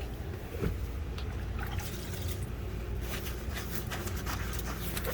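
Liquid trickling, over a steady low hum, with scattered small clicks in the second half.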